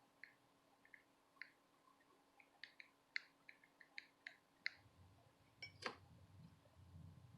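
Near silence broken by faint, irregular small clicks and ticks, with one sharper click about six seconds in.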